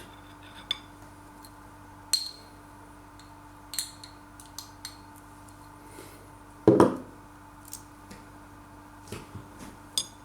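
Scattered light clinks and taps of a knife against a Vegemite jar and plate, with one louder knock about two-thirds of the way through, over a faint steady hum.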